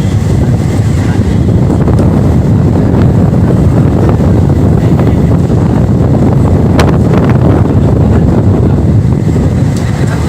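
Loud rush of wind on the microphone over the low, steady rumble of a passenger express train running at speed, with a sharp click about seven seconds in.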